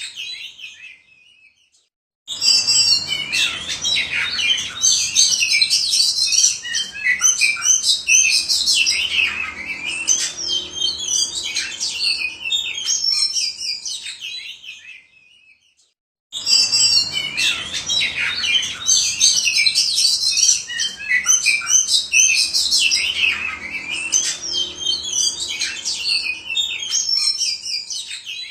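Oriental magpie-robin (kacer) in full display song, a fast, varied run of loud whistles, trills and chatter. It comes in two long passages that start abruptly and fade out, the same passage heard twice.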